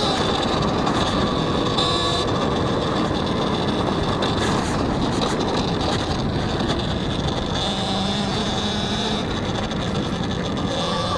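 Talaria X3 electric dirt bike being ridden, heard from a helmet mic: a steady rush of wind and tyre noise with the electric motor's faint whine.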